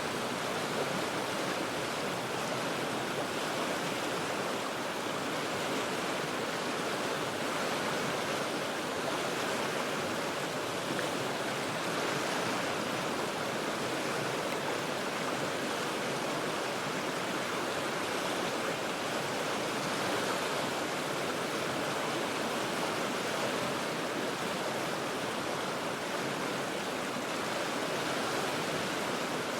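River water rushing steadily over rocks, an even, unbroken roar of flowing water with no change in level.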